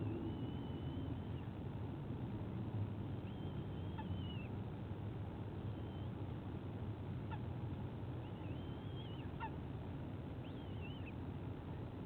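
Thin, high, wavering squealing calls of white-bellied sea eagle chicks, about five drawn-out calls with a few quick falling notes, over a steady low background rumble.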